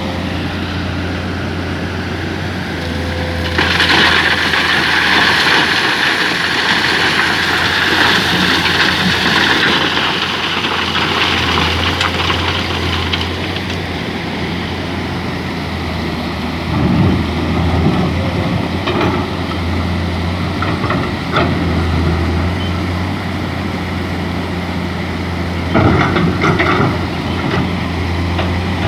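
Excavator's diesel engine running steadily while it digs sand. About four seconds in, a louder rushing hiss lasts several seconds. Scattered knocks and clanks follow in the second half.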